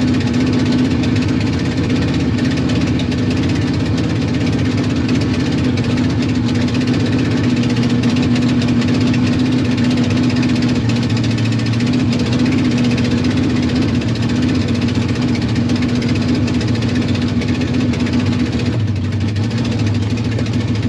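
Truck engine running steadily at an even, unchanging pitch.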